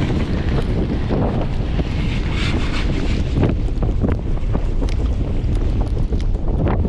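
Gale-force wind buffeting the microphone: a loud, steady low rumble with gusts.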